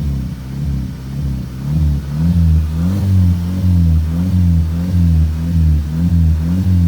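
Volkswagen car engine revved by rhythmic pumping of the gas pedal, its pitch and loudness swelling and falling again and again, at about two swells a second from about two seconds in.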